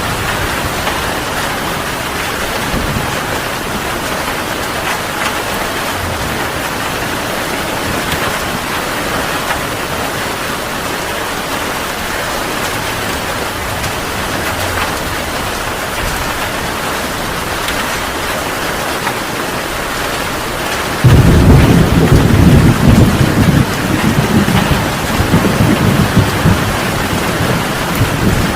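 Heavy rain falling steadily, with a loud rolling rumble of thunder that breaks in suddenly near the end and keeps rumbling.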